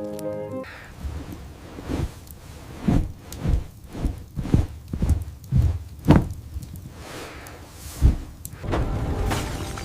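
A series of about eight dull, heavy thumps at uneven spacing, like blows or heavy steps, following a short tail of music.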